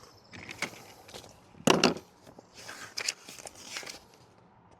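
Handling noises: a series of short rustles and knocks, the loudest about two seconds in, with a longer rustle near the three-second mark.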